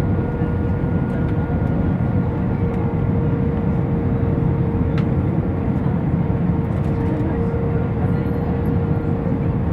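Cabin noise of an Airbus A319 on the runway just after landing: a steady low rumble of engines and wheels with a steady whine tone over it. A single sharp click comes about halfway through.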